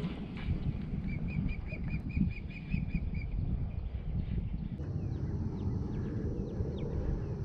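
A bird calls a quick run of about ten short, evenly spaced chirps, roughly five a second, over a low steady rumble. About five seconds in, the background changes and a few brief, sharp chirps follow.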